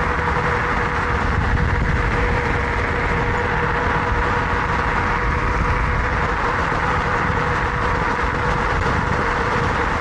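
Wind rushing over the microphone and tyre noise from an electric bike riding at a steady speed, with its electric motor giving a steady whine that dips slightly in pitch near the end.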